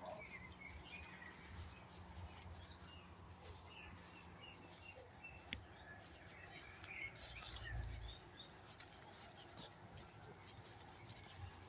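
Faint songbirds chirping and trilling in short, scattered phrases in a quiet wood, with a single sharp click about halfway through.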